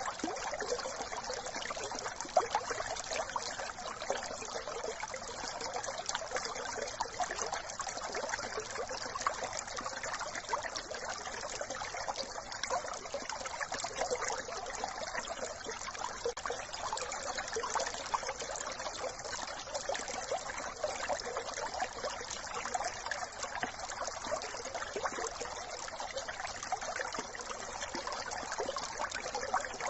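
Small brook trickling and babbling over stones, a steady, even water sound.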